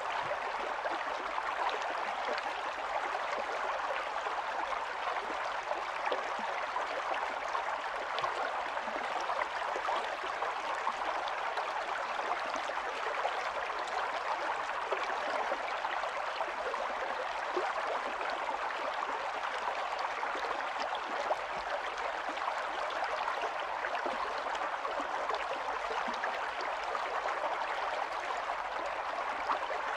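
Small stream of running water flowing and babbling steadily over stones, a continuous rush with fine trickling detail.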